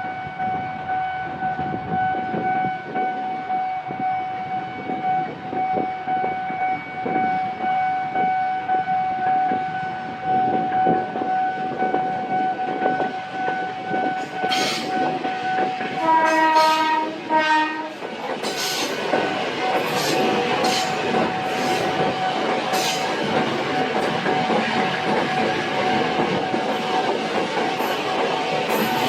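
A train passing close by: a steady whine runs through the first half, the train horn sounds for about two seconds around the middle, then the wheels clatter over the rail joints.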